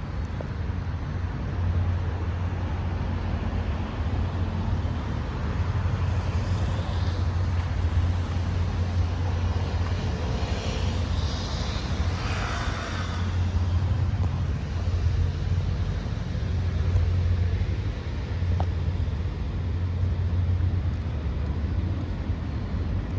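Steady low rumble of city street traffic, with a brief swell of higher, hissing noise about halfway through.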